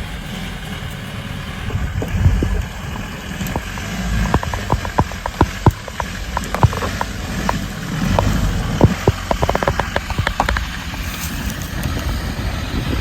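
Toyota Hilux 4x4's engine running steadily, with a run of sharp clicks and knocks through the middle of the stretch.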